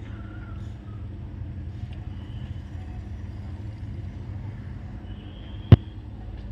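Steady low rumble of outdoor background noise, with one sharp knock about three-quarters of the way through.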